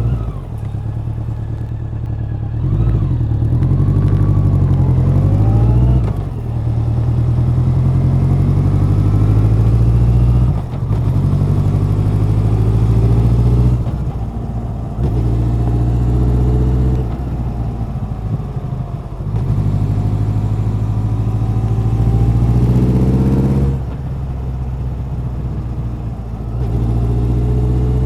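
Honda CB1100's air-cooled inline-four engine and exhaust under way on the road, the pitch climbing under throttle and dropping sharply about five times at gear changes or as the throttle is rolled off.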